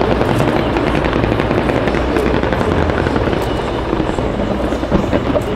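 Fireworks display: a dense barrage of aerial shells bursting, heard as a steady rolling rumble of booms with crackles, and one sharper bang near the end.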